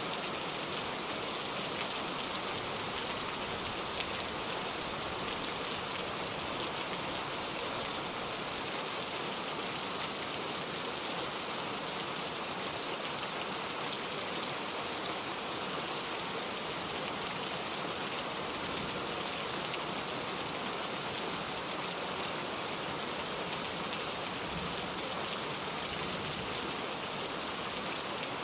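Steady rain falling and pattering on a surface, an even hiss with fine, dense drop ticks.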